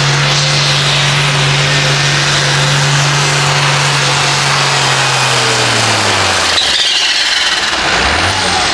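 Loud, steady note of a pulling tractor's engine held at full throttle under load, then falling in pitch about six seconds in as it comes off the throttle.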